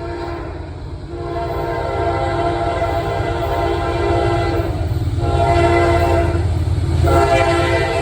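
Norfolk Southern diesel freight locomotive sounding its horn in a series of long chord blasts separated by short breaks, over the low rumble of the approaching train, growing louder.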